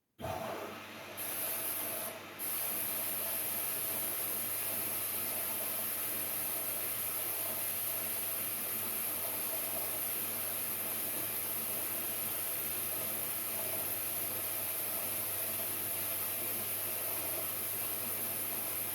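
LG Direct Drive 8.5 kg washing machine running mid-cycle: a steady hiss with a faint steady hum that starts suddenly just after the start and holds level throughout.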